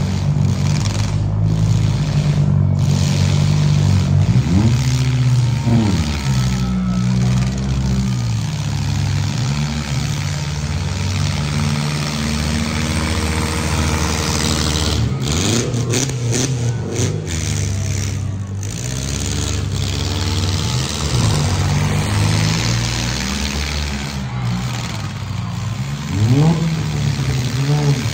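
Demolition-derby compact cars' engines running and revving, the pitch rising and falling as they accelerate, several times (about 5 s in, around 15–17 s, and near the end).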